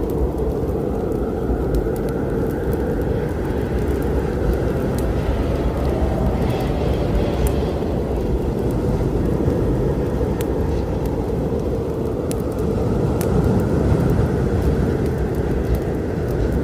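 A steady low storm rumble, swelling slightly about thirteen seconds in, with a wood fire giving occasional sharp crackles and pops over it.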